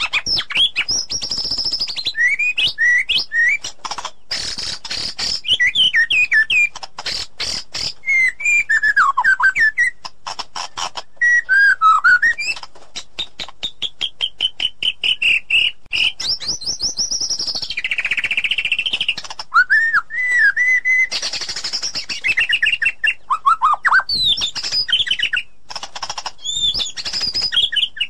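White-rumped shama singing a long, varied song, almost without a break. Clear whistles and swooping pitch glides alternate with fast rattling runs of repeated notes.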